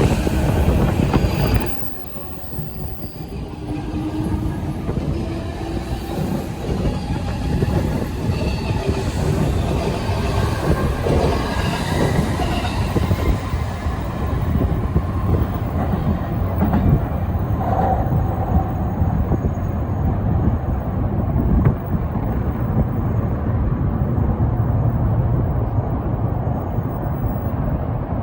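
Electric commuter train running in the station, its steel wheels squealing faintly on the rails over a steady low rumble. It is loudest in the first second or so, then drops suddenly and settles into a steady run, with strong wind buffeting the microphone.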